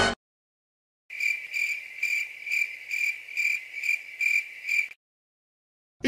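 Crickets sound effect: a cricket chirping in even, high pulses, about two a second, starting about a second in and stopping near five seconds. It is the stock cue for an awkward silence.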